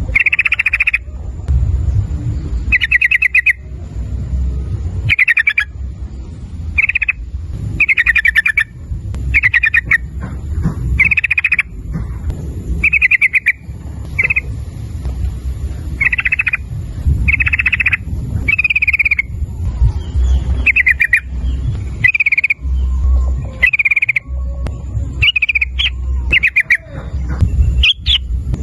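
Yellow-vented bulbul (trucukan) calling over and over in short, rapid chattering phrases, about one a second, over a steady low rumble.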